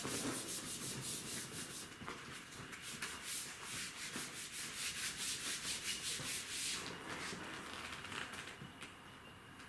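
Board eraser rubbed rapidly back and forth across the board, about four or five strokes a second, clearing writing to make room; the rubbing stops about seven seconds in, leaving faint scratches.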